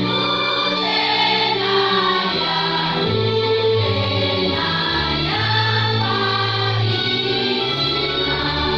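Choir singing long held chords that change every second or two, with low notes sounding beneath.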